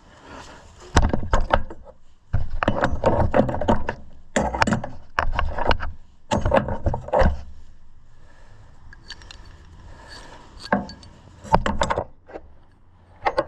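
Metal hand tools and loose bolts clattering and clinking in several bursts of shop work, with a few single sharp clinks near the end.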